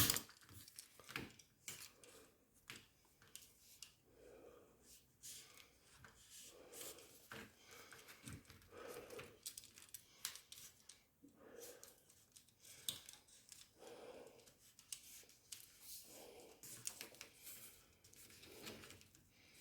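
Utility knife cutting into an old rubber refrigerator door gasket: faint scattered scrapes and small clicks, with one sharp click at the start.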